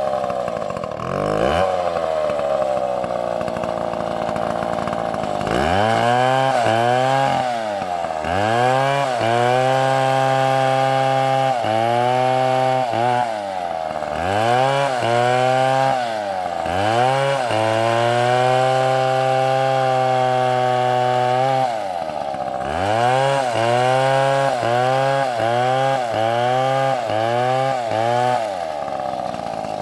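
STIHL chainsaw cutting wood, the engine's pitch dropping and recovering over and over, with longer steady stretches in between. Near the end the dips come quicker, about one a second.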